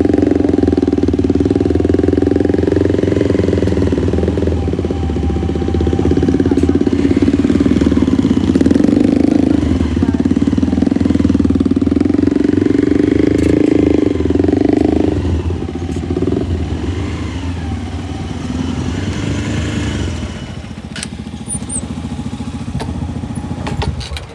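Motorcycle engine running while the bike is ridden, steady for about fifteen seconds, then easing off and quieter over the last few seconds.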